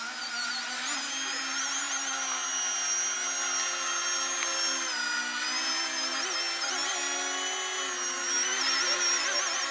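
Electric VTOL RC airplane's motors and propellers running in hover with a steady high whine, its pitch wavering slightly and dipping briefly about halfway through as the throttle is adjusted.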